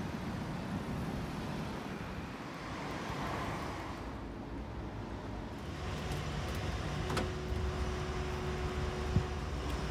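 Steady low outdoor background rumble with no distinct event, with a faint steady hum joining about seven seconds in and a couple of light clicks.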